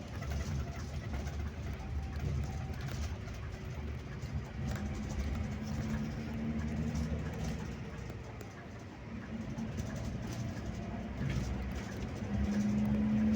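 Scania K360IB touring bus on the move, heard as a steady low engine and road rumble with a humming drone that swells twice, louder near the end.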